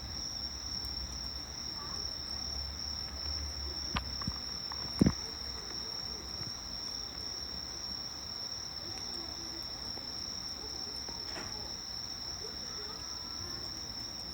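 Crickets and other autumn insects singing in one steady, continuous high trill. Two sharp snaps cut through it about four and five seconds in, the second the louder.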